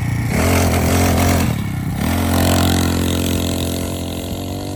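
Engine of a small ridden vehicle revving up, easing off briefly, then revving again before it fades and drops in pitch as it pulls away.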